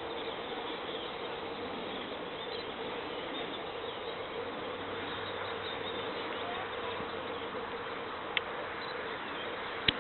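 Steady outdoor background noise with a faint, even hum throughout, and two short clicks near the end.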